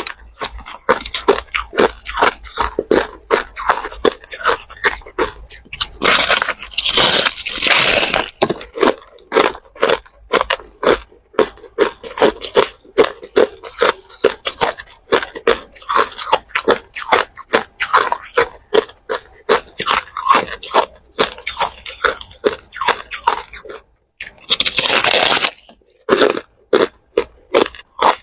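Hard ice cubes being bitten and chewed close up: a long run of sharp crunches, about two a second, with two longer stretches of dense crackling, about six seconds in and again near the end.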